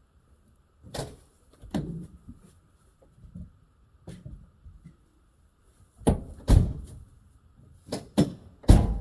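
Irregular knocks and clunks, about nine of them, from hands and tools working a rubber fuel hose onto its fitting on a car. The heaviest come in two clusters, about six seconds in and again near the end.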